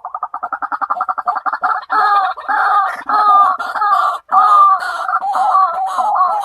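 White-breasted waterhen calling: a fast run of short notes at about ten a second, then from about two seconds in a continuous, wavering croaking call.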